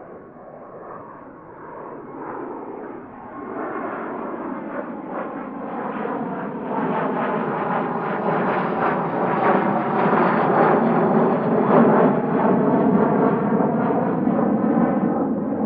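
Jet aircraft approaching and passing close, its engine noise growing steadily louder over about ten seconds and staying loud near the end.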